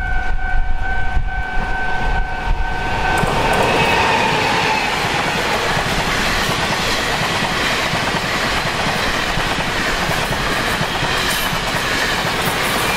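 Tzu-Chiang E1000 push-pull express train passing close at speed, with the wheels clattering on the rails over a loud, steady rush of rolling noise. A steady two-pitched warning tone sounds at first and stops about three seconds in.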